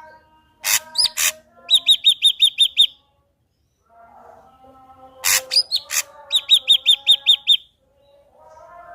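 Ashy drongo singing two phrases. Each phrase has a few sharp, loud notes followed by a quick run of about eight repeated ringing notes, with a short pause between the phrases.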